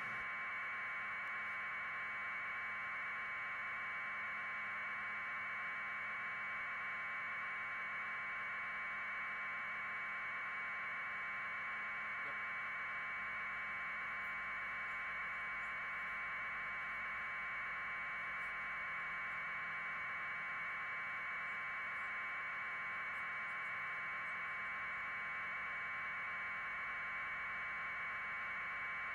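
Steady, unchanging static hiss, concentrated in a narrow mid-high band and held at one level throughout, with no voices.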